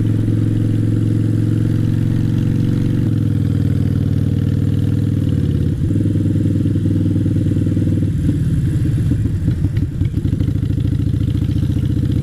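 Motorcycle engine running steadily under way. Its note drops a little about three seconds in, and after about eight seconds the beat turns uneven and pulsing.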